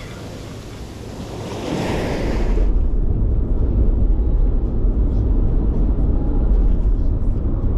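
Surf washing on a beach with wind on the microphone, then an abrupt change about three seconds in to a steady low rumble of a car's road noise.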